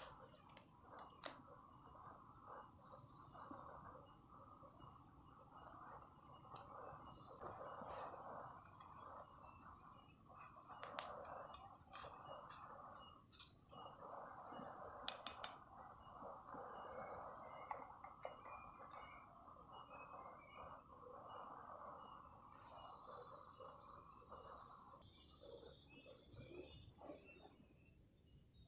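Crickets and other insects chirring in a steady, high-pitched chorus, with a few sharp clicks. Near the end the high chorus cuts off suddenly.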